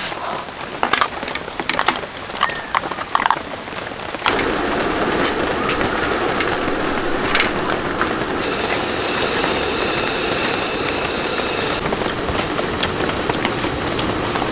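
Steady rain with scattered sharp taps of drops. About four seconds in, the sound changes abruptly to a louder, denser steady rush. A faint high whine runs for about three seconds in the middle.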